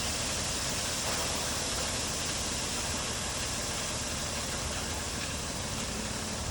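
Truck engine running steadily with a constant hiss over a low rumble.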